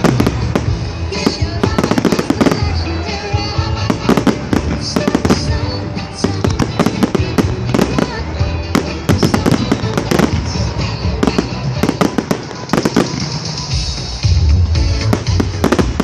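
Fireworks going off in rapid succession, sharp bangs and crackling clusters, over loud music with a heavy bass.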